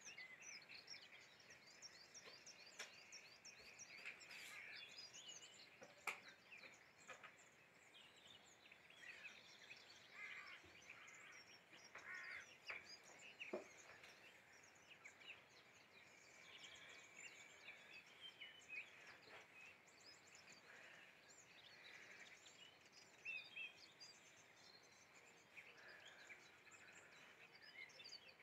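Faint outdoor birdsong: several small birds chirping and twittering over a soft background hiss, with an occasional faint click.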